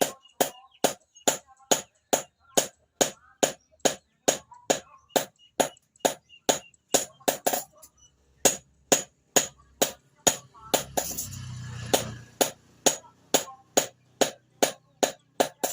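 Hand hammer forging a steel blade on an anvil: a steady run of sharp, ringing metal blows, about two a second. About two-thirds of the way through there is a short noisy rush with a low rumble.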